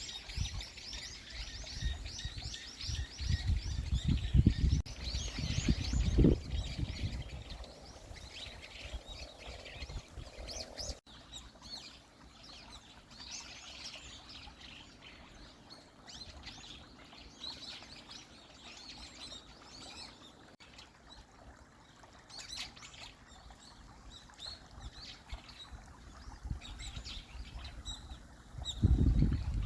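Small birds chirping and twittering in quick, repeated high calls throughout. Low rumbling bursts on the microphone a few seconds in and again near the end.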